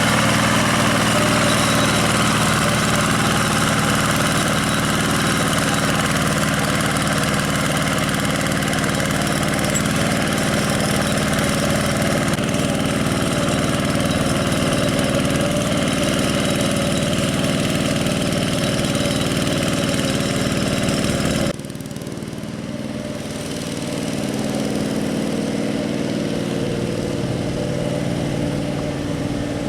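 Single-cylinder diesel engine of a two-wheel hand tractor running steadily. About two-thirds of the way through, the sound drops suddenly to a quieter level, then slowly builds back up.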